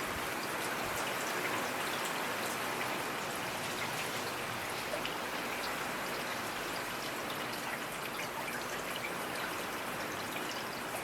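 Steady rainfall: a dense even hiss of rain with scattered single drops ticking on a surface.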